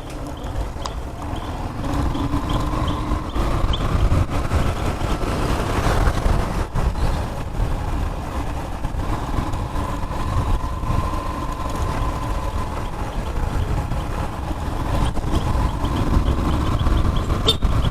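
Small motorcycle engine running at a steady pace while riding, its pitch drifting slightly, over low wind rumble on the microphone.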